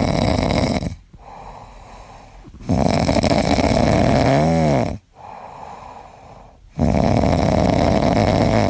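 Loud snoring: three long, noisy snores about four seconds apart, with quiet breathing between them. A short tone rises and falls in the middle of the second snore.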